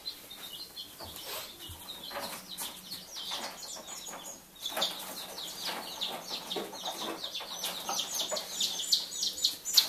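Bantam chicks a few days old peeping: quick, high, falling cheeps, sparse at first and coming thick and louder from about halfway in.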